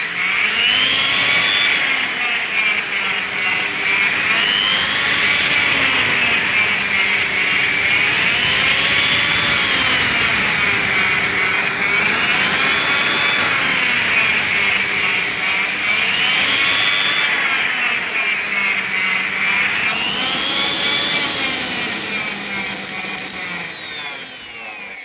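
Silvercrest SKM 550 A1 food processor motor running on its regulator board, its high whine rising and falling in smooth waves about every four seconds as the speed is turned up and down. It slows and fades near the end.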